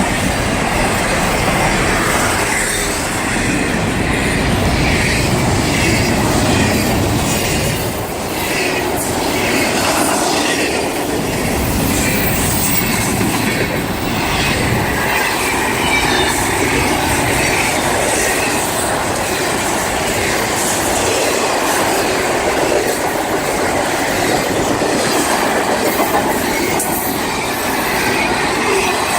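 Freight train cars rolling past on the rails, a steady loud rumble and clatter of wheels and couplings, with thin high wheel squeal coming and going.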